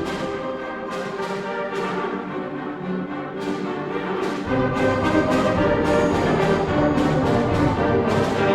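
Live community orchestra playing an upbeat Hanukkah song medley arrangement, brass prominent over the strings, with the low instruments coming in about halfway through.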